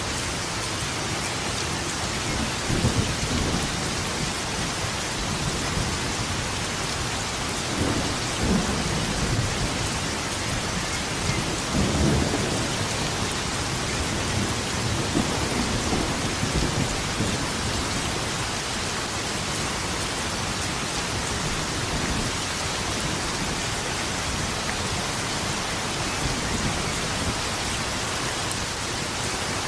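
Steady heavy rain with rolls of thunder rumbling underneath, swelling a few times and loudest about twelve seconds in.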